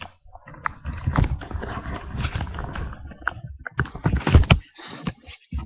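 Handling noise from a webcam being carried: rustling and scraping with a run of knocks and thumps, the loudest cluster a little past halfway.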